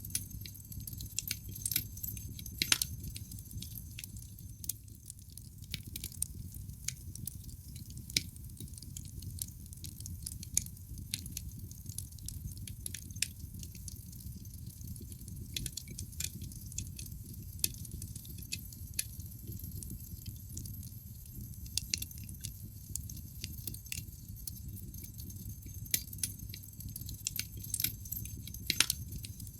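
Wood fire burning in a fireplace: a steady low rumble of flames with irregular crackles and snaps of burning logs, a few sharper pops standing out, one near the start and one near the end.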